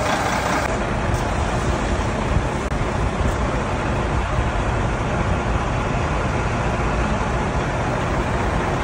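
Heavy truck running: a steady engine drone under an even rush of road and wind noise.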